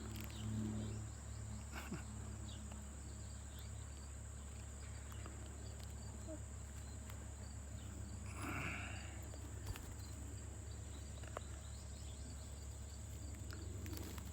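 Quiet outdoor ambience: a steady high-pitched drone and a low hum, with faint scattered ticks and one short rustle about eight and a half seconds in.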